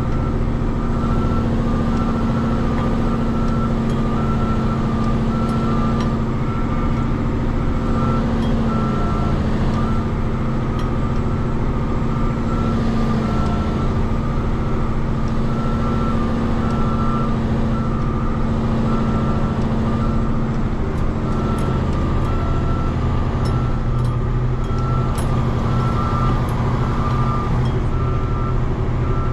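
Dump truck's diesel engine running steadily, with an electronic warning beeper sounding at about three beeps every two seconds.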